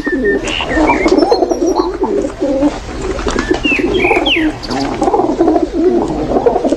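Many aviary birds calling at once: a dense, continuous low babble of overlapping calls with scattered short rising and falling whistles above it.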